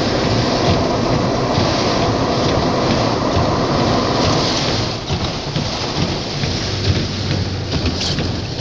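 Heavy rain pounding on a car's roof and windshield, heard from inside the moving car over a steady low rumble. It eases a little about five seconds in.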